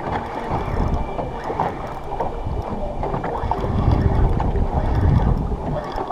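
Wind buffeting the microphone over choppy water slapping against a small anchored boat, gusting stronger in the second half, with a few small knocks.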